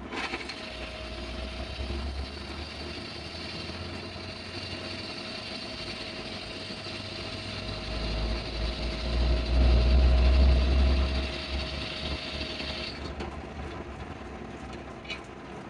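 A motor running steadily with a held hum, a low rumble swelling louder for a few seconds past the middle, then cutting off about thirteen seconds in.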